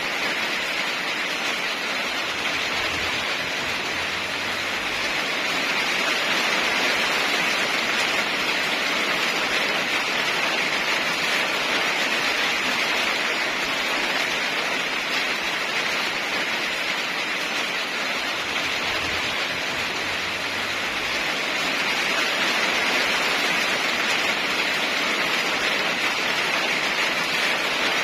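Steady heavy rain, a dense even hiss that swells slightly a couple of times.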